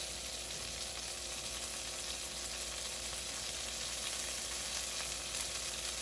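Floured chicken pieces sizzling steadily as they pan-fry in oil in a skillet, with a utensil turning them in the pan.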